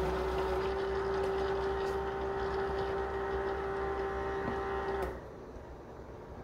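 Keurig K-Mini coffee maker's internal pump running with a steady pitched hum during its first cleansing brew cycle, cutting off abruptly about five seconds in.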